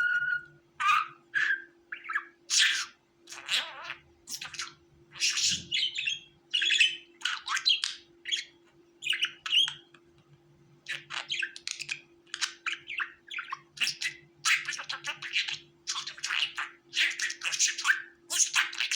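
Budgerigars chirping and warbling in quick, irregular bursts, with a short lull about halfway through and busier calling after it. A faint steady hum lies underneath.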